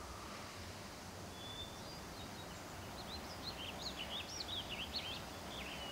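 Quiet outdoor background hum with a small bird singing a quick twittering run of high, rising-and-falling chirps over the second half.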